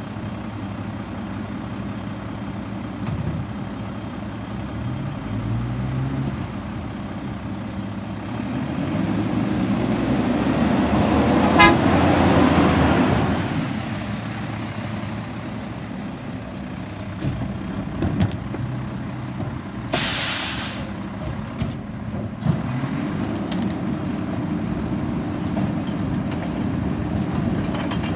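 Heavy diesel garbage truck engine running, with a vehicle swelling past and fading near the middle. About two-thirds of the way in there is a sharp air-brake hiss lasting about a second, then the engine revs up and holds a higher pitch.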